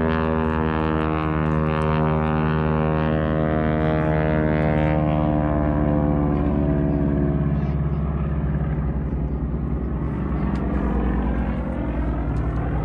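Propeller-driven airplane flying past, its engine note falling slowly in pitch over the first seven seconds or so as it goes by, leaving a lower, steady engine rumble.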